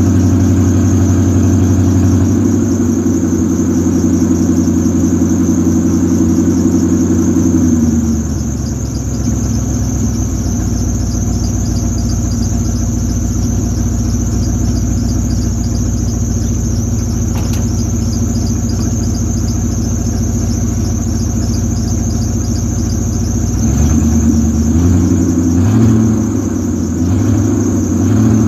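Car engine running with its exhaust leak repaired. It settles to a lower, quieter idle about eight seconds in, then is blipped up and down several times near the end. A steady high-pitched whine sits above the engine throughout.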